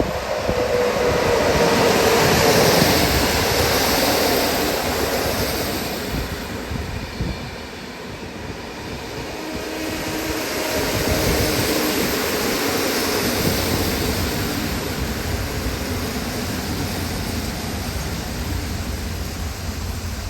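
Train passing on the line: a steady rumble and rail noise, loudest about two to four seconds in, easing off, then building again about ten seconds in and holding.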